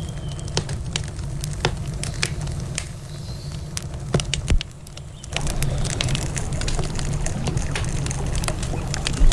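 Wood campfire crackling, with sharp pops scattered irregularly over a steady low rumble. The level dips briefly about five seconds in, then a denser hiss and crackle comes back.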